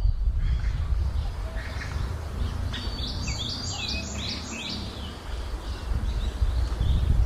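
Birds chirping: a quick run of about six short falling chirps about three seconds in, with fainter chirps around it, over a steady low rumble.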